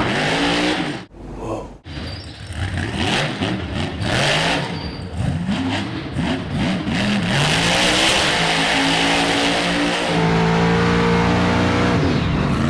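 Monster truck's supercharged V8 being driven hard, its revs rising and falling repeatedly, then held high and steady near the end. The sound drops away briefly about a second in.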